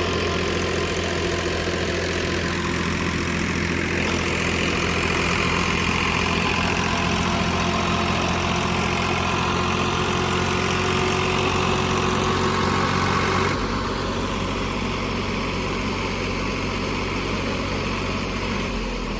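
Ford 3600 tractor's diesel engine running steadily under load, with a change to a slightly quieter, lower note about thirteen and a half seconds in.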